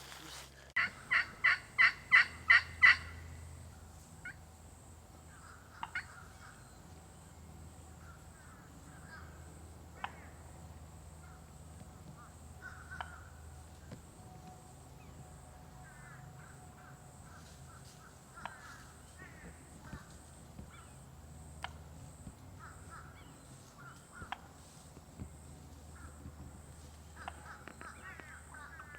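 A series of about eight turkey yelps, about four a second, growing louder over two seconds, the turkey-style calling used to locate birds. Faint scattered distant calls and clicks follow over a steady high thin hum.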